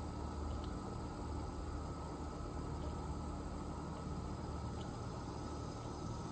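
Insects trilling in one unbroken high-pitched note, over a low steady rumble, with a couple of faint short chirps.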